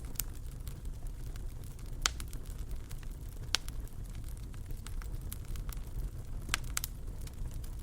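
Wood fire crackling in a fireplace: a steady low rumble of the flames with scattered sharp pops, a few standing out louder about two, three and a half, and six and a half seconds in.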